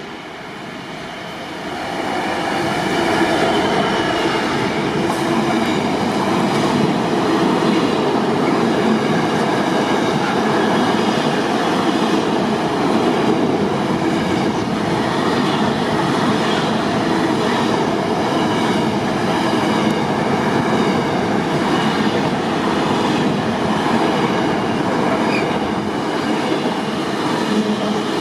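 A train running past on the rails, getting louder about two seconds in and staying loud, with repeated clicks of wheels over the track.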